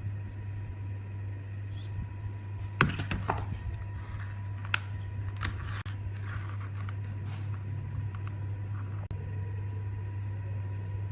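A series of sharp clicks and knocks, as of metal and plastic tool parts being handled, over a steady low hum. The clicks come in a cluster about three seconds in and a few more over the next four seconds.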